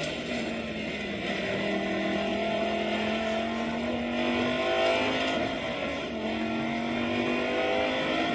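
Audi R8 GT4 race car's V10 engine under power, its pitch climbing slowly. About halfway through the pitch drops at a gear change, then climbs again.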